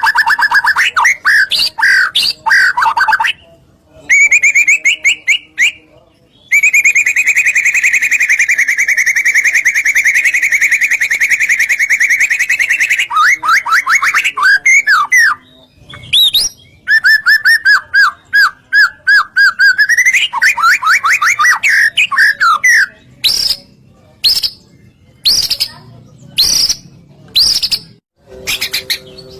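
White-rumped shama (murai batu) singing loudly: a long rapid trill held for several seconds, then fast rising and falling whistled phrases, and short sharp notes in quick succession near the end.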